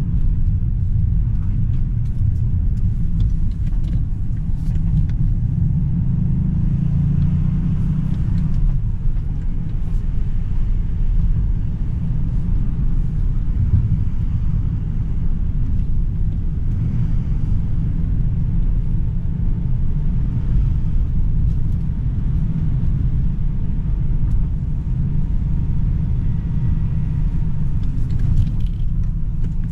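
Stock Toyota GR Yaris's G16E-GTS 1.6-litre turbocharged three-cylinder engine running at a steady, light load, mixed with a deep tyre and road rumble. The engine speed stays fairly even, with no sharp revving.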